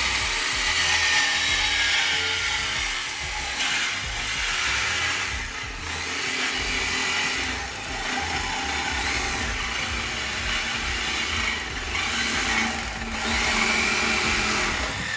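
Power tool running in stretches with brief pauses, working on a car's exhaust as its mufflers are removed for a muffler delete.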